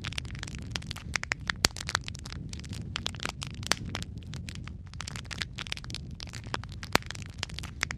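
Wood fire crackling: frequent sharp snaps and pops over a steady low rumble of burning, with a few louder pops about two seconds in, near four seconds and near seven seconds.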